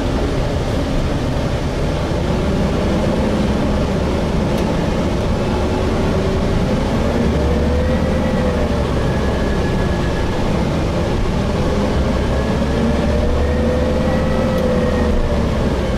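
Cabin sound of a Gillig Phantom transit bus with a Voith transmission under way: a steady low engine and road rumble, with a faint drivetrain whine that rises and falls gently a few times as the speed changes.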